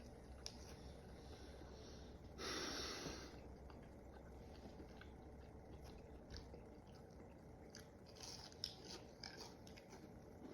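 Faint chewing of crispy cauliflower wings, with a short hissing rush about two and a half seconds in and a few small mouth clicks near the end.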